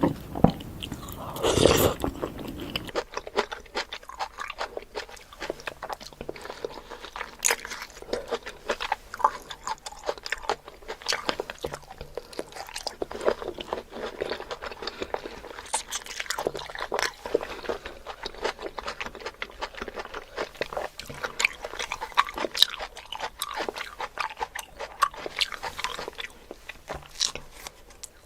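Close-miked crunchy biting and chewing of fruit: many irregular sharp crunches and wet chewing, with the loudest bites in the first two seconds.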